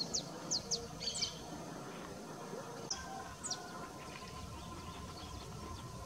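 Bird chirping: short, high, downward-sliding notes, a quick run of them in the first second and a half, then single chirps about three and three and a half seconds in, over faint open-field background.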